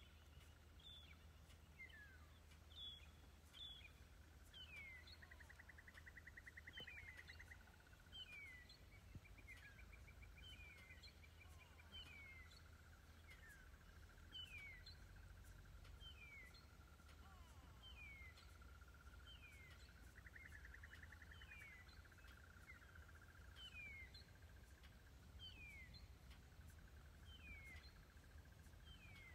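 Faint bush ambience: a bird repeating a short, falling call roughly every second or so, over a steady high hum with brief trills and a low rumble.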